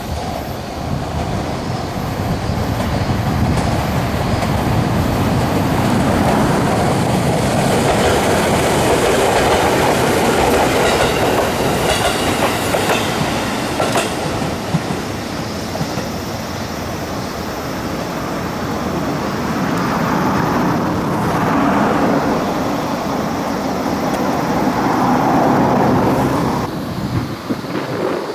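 Electric train running by on the rails, wheels clicking over rail joints. The noise swells and eases twice and drops off sharply near the end.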